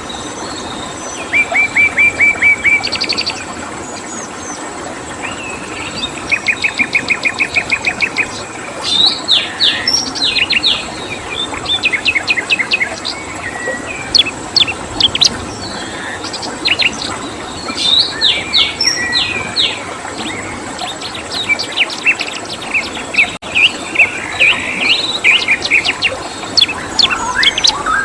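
Songbirds singing and chirping in quick, varied phrases, with several rapid trills of evenly repeated notes, over a steady background hiss.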